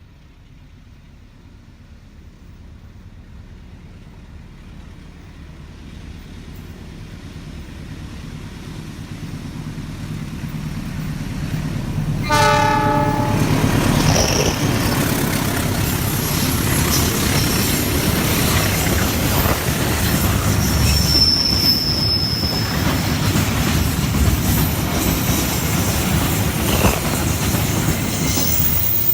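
Train approaching and growing steadily louder, sounding its horn in one short blast about twelve seconds in, then passing close by with a steady rumble and clatter of wheels on the rails. A brief high wheel squeal comes a little past the middle of the pass.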